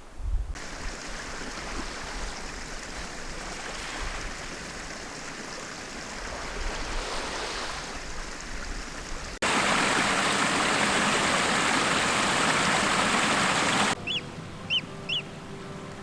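Rushing water heard as an even noise, in abruptly cut segments; the noise is loudest and most even for about four and a half seconds in the second half. Near the end it drops away and a few short, high bird chirps are heard.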